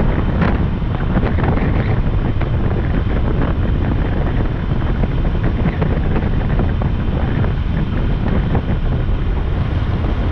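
Steady wind rush buffeting the microphone of a moving motorcycle, with road noise underneath.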